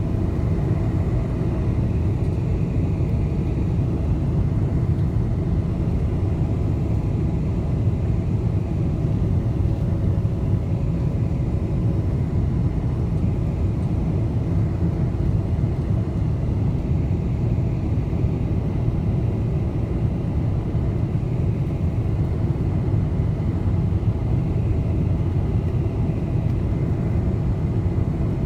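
Steady low rumble of a Boeing 747's engines and rushing air heard inside the passenger cabin on the approach, with a faint steady hum above it and no sudden changes.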